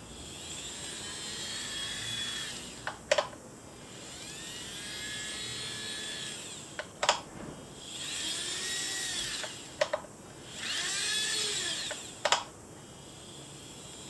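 KATO N-gauge DD51 model locomotive with its flywheel motor unit running on track, its high motor whine swelling and fading as it repeatedly comes past. Sharp clicks come four times as the wheels run over rail joints.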